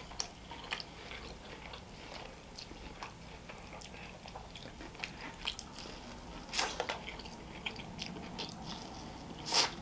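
Close-up chewing and biting of charred street-style corn on the cob with cheese and a mayo dressing: wet mouth clicks and crunchy bites of kernels, with louder bites about two-thirds of the way through and again near the end.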